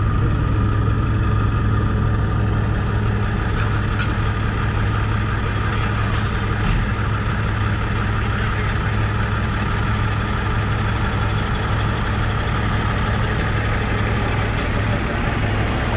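Heavy truck's diesel engine running steadily at a constant speed, with a deep, even hum.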